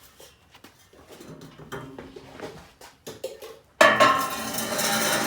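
Light metallic clicks and clinks of screws and tools being handled, then a sudden loud, sustained sound with several steady tones starting about four seconds in.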